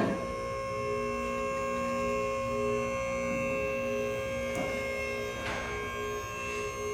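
A steady electrical hum made of several held tones, some of them switching on and off every half second or so.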